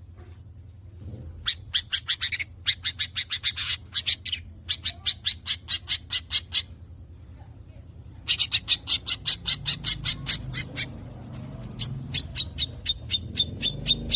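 Hand-reared long-tailed shrike (cendet) nestling, about a week old, giving begging calls: rapid trains of short harsh squawks, about six a second, in several bursts with short pauses between them.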